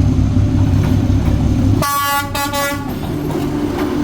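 An approaching train's diesel locomotive sounds its horn about two seconds in: a loud blast of about a second with a brief dip in the middle. A steady low engine rumble runs underneath.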